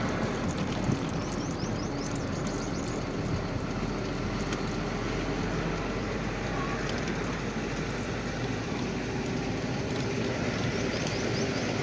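Truck running, a steady engine and road rumble.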